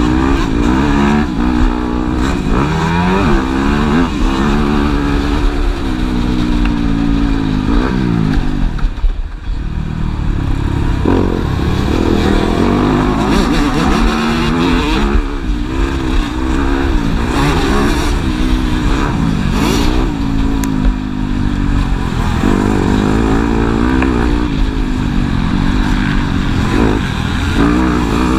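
Several motocross bikes' engines revving hard at once, their pitch climbing and dropping over and over with throttle and gear changes; the sound eases briefly about nine seconds in.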